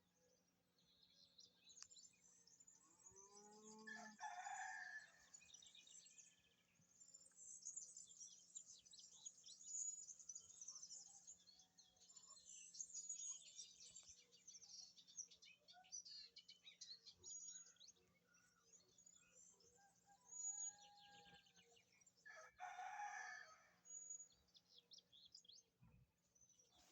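Faint songbirds chirping and twittering throughout, with a louder, lower-pitched bird call twice: about four seconds in and again near the end.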